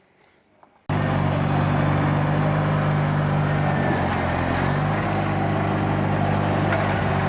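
Small lawn tractor engine running steadily. It comes in suddenly about a second in and holds an even note.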